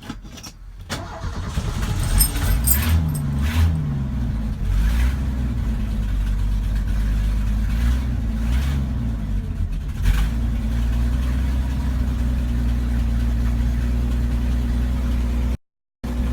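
1984 Ford F-150's 300 cubic-inch inline-six, cold-started with its Carter YFA one-barrel carburetor unchoked, catching about a second in. Its revs rise and fall unevenly for a few seconds before it settles into a steady idle.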